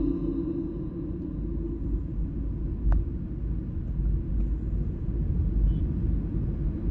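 Steady low rumble of outdoor background noise, with a single faint click about three seconds in.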